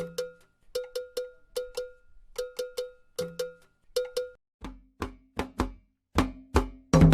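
A metal bell, like the agogô used in Candomblé, is struck in a repeating pattern of quick ringing strokes, mostly in groups of two or three. About four and a half seconds in, deep drum strokes join it.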